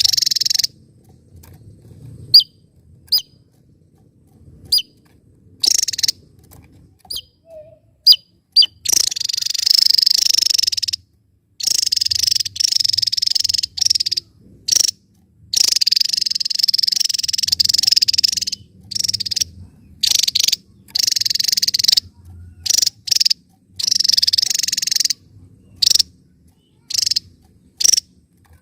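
Javan tesia singing: first a scattering of short, sharp, high single notes, then a run of loud, rapid, high-pitched phrases of one to two and a half seconds each, broken by short pauses.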